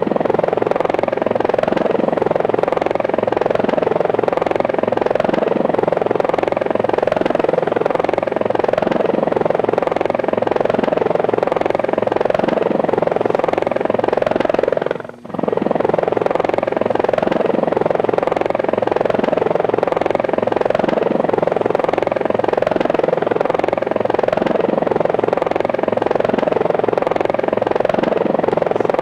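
Helicopter rotor and engine sound, a steady fast rotor chop that drops out briefly about halfway through.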